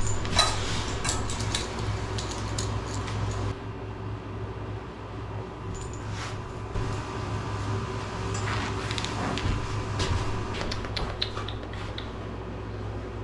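Scattered light clinks and rattles, like small metal items knocking together, over a low steady hum that drops about three and a half seconds in.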